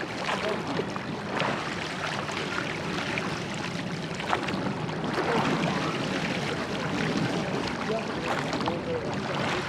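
Steady rush of water and wind around a rowed church boat, with scattered knocks and splashes and faint voices in the background.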